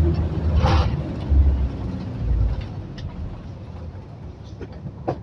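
Road vehicle running with a low engine rumble, with a short hiss a little under a second in. The rumble dies down after about two and a half seconds, and a few light clicks come near the end.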